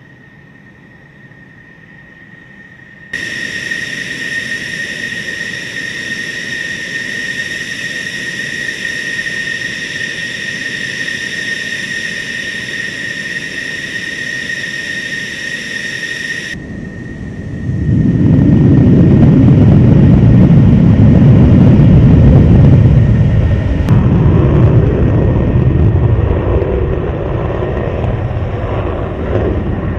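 F-16 fighter jet engine: first a steady high-pitched whine with several strong tones, starting and stopping abruptly. Then a much louder, deep jet roar builds up and holds, as at full power for takeoff.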